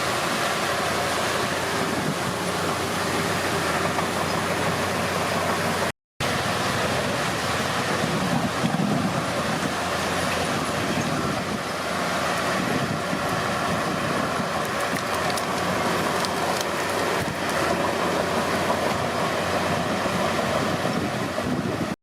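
Komatsu D31P bulldozer's diesel engine running steadily as the machine works, with a brief dropout in the sound about six seconds in.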